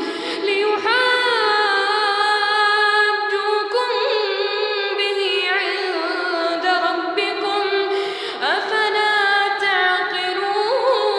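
A child's high voice chanting Quran recitation in melodic tajweed style, holding long unbroken notes with ornamented slides up and down in pitch.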